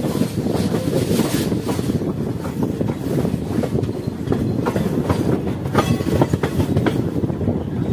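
Passenger train coaches running along the track: a steady rumble of wheels on rail, with many quick clicks and clatters from the wheels and bogies, a little louder about six seconds in.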